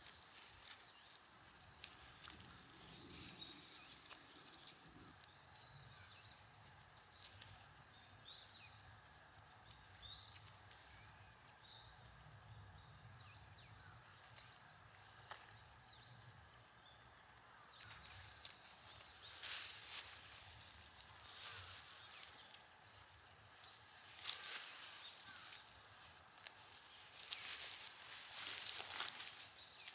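Quiet outdoor ambience with faint, scattered small-bird chirps and a steady, rapidly repeating high note. In the second half come several short bursts of rustling noise.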